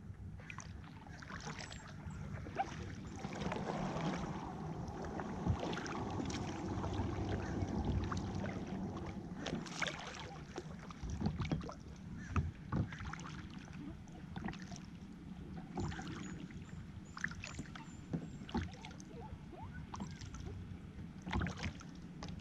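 Kayak being paddled: water swishing and splashing from the paddle and along the hull, with scattered irregular clicks and drips.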